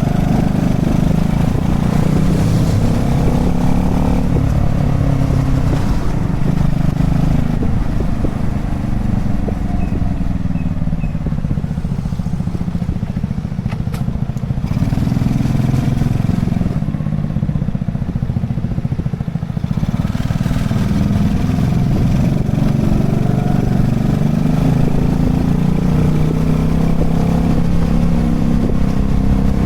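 Honda Chaly minibike's small four-stroke single-cylinder engine running on the move, its pitch rising and falling with speed. It eases to a lower, softer note around the middle, then climbs again after about twenty seconds in.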